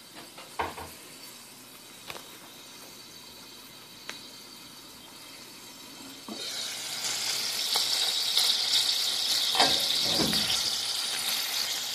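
Chicken frying in a pan: a faint hiss while the glass lid is on, then a loud steady sizzle once the lid is lifted about six seconds in. A few light clinks early on and a knock near ten seconds as the lid is handled.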